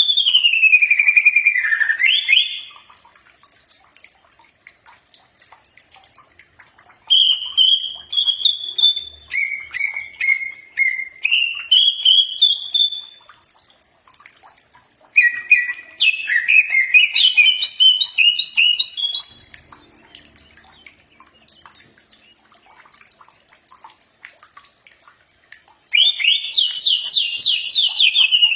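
Cucak ijo (green leafbird) song: loud whistled phrases of slurred notes and quick trills, coming in four bursts separated by pauses of a few seconds.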